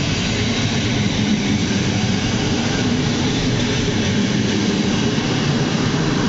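PKP Intercity passenger train departing, its coaches rolling past close by: a steady rumble of wheels on the rails.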